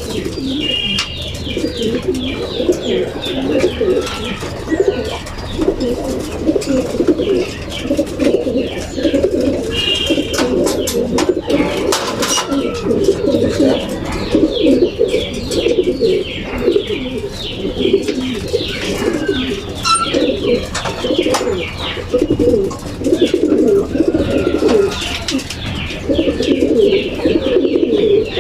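Many racing pigeons cooing together in a continuous chorus, with higher chirps and scattered short clicks mixed in.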